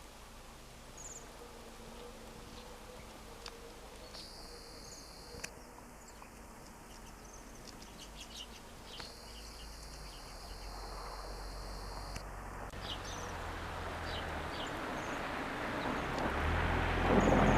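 Small birds giving short, high, faint chirps now and then. A low rumbling noise swells steadily louder over the last few seconds.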